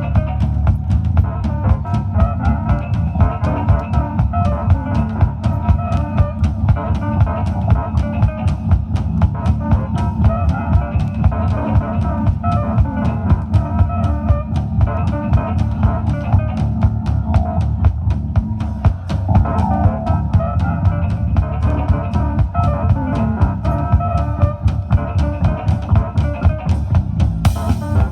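A live band playing: drum kit keeping a steady, busy beat under guitar and bass.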